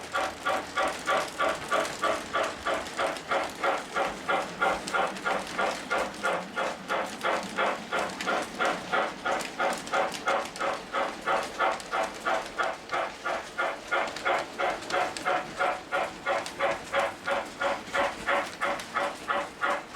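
Lionel O-gauge model train running on 3-rail tubular track, making a steady rhythmic pulsing sound at about two and a half beats a second.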